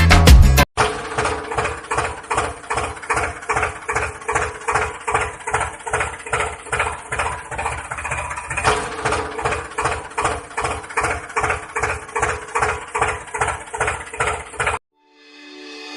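A tractor engine idling, chugging evenly at about three to four beats a second. It cuts off suddenly near the end.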